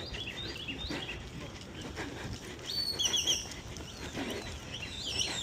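Birds chirping in short, repeated notes, with a louder burst of calls about three seconds in.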